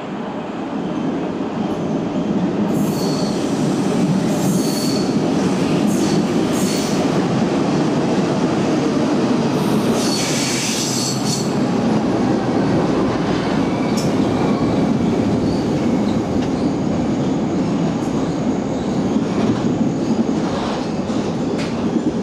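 A London Underground train of diesel locomotives hauling preserved Cravens 1960 Tube Stock cars running through a station without stopping. A steady rumble of wheels on rails builds over the first couple of seconds. Several bursts of high wheel squeal ride over it, the longest about ten seconds in.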